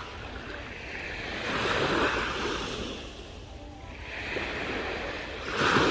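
Sea waves washing onto the shore, surging twice: once about two seconds in and more loudly near the end, with a low rumble of wind on the microphone.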